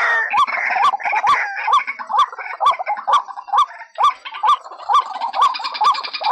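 White-breasted waterhen calling over and over: a short rising note repeated about twice a second, each with a sharp click. A faster, higher chattering joins in near the end.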